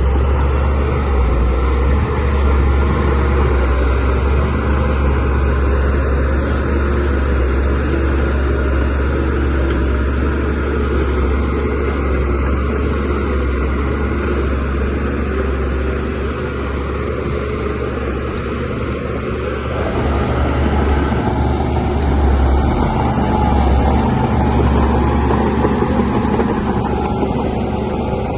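Diesel engine of a Shantui DH17C3Pro bulldozer running steadily under load as it works, a deep continuous drone that eases a little partway through and builds again later.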